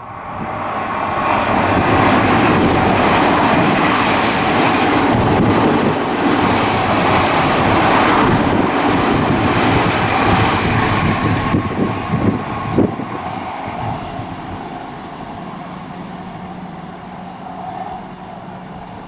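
Odakyu 3000 series electric commuter train going by at close range, its running noise building over the first two seconds, staying loud for about ten seconds, then slowly fading. A few sharp clicks come from the wheels near the middle.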